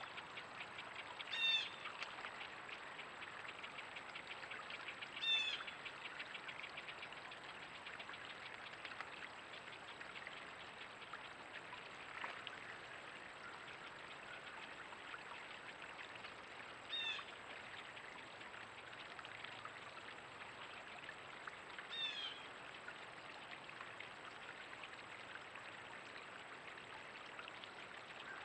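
A bird gives a short call four times over a steady rushing background like trickling water.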